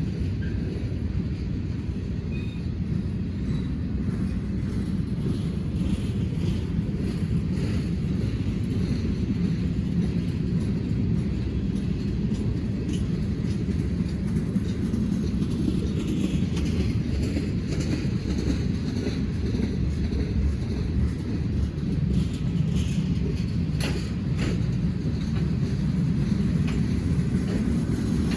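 A train rolling steadily past, a continuous low rumble with scattered clicks from the wheels, a couple of them sharper about three quarters of the way through.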